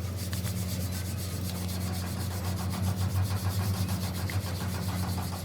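Quick, even rubbing or scraping strokes, many a second, over a steady low hum.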